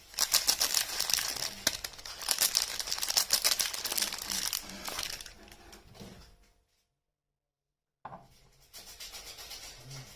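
Packaging being crinkled and torn open in dense crackling bursts for about five seconds, fading away. After a second of dead silence comes quieter rustling near the end.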